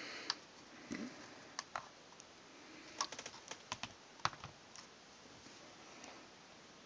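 Scattered light clicks and taps, with a quick cluster about three seconds in and a sharper tap a second later: handling noise as the plastic model is moved about.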